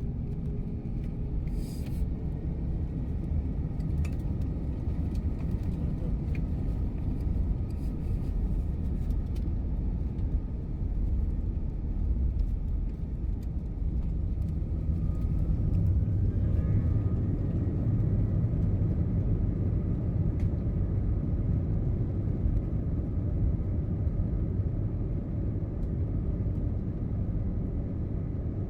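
Airbus A321 cabin noise: a steady low rumble from the engines and airframe, heard inside the cabin. It grows louder about halfway through, with a faint rising whine.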